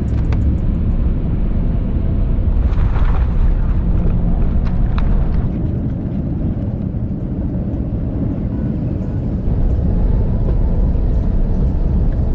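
Airbus A350-900 on its landing roll, heard from inside the cabin: a loud, steady low rumble. There is a brief rush of noise about three seconds in, and the rumble grows louder again from about ten seconds in.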